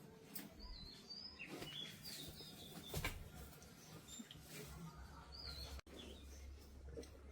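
Small birds chirping in short, wavering calls, with scattered clicks and a sharper knock about three seconds in.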